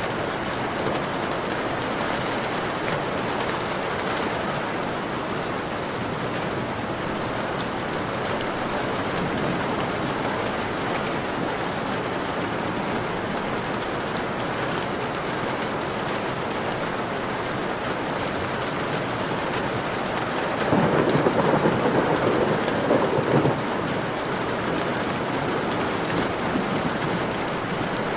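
Steady rain pattering against a window pane. About three-quarters of the way through, a rumble of thunder rises over it for about three seconds.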